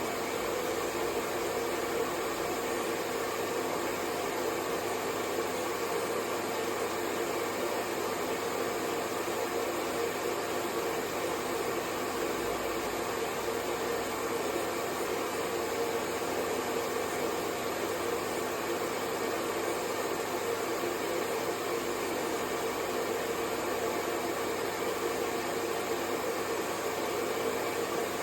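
Hair dryer running steadily: an even whooshing rush of blown air with a faint motor hum in it, not changing at all.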